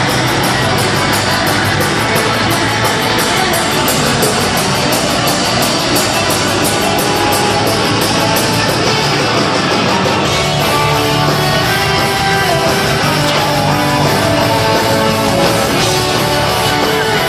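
Heavy metal band playing live: an instrumental passage of distorted electric guitars over fast, steady drumming. About ten seconds in, a clearer guitar melody line comes forward.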